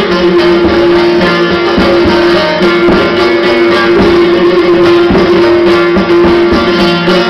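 Instrumental music played on a plucked string instrument, with one strong note sounding almost throughout.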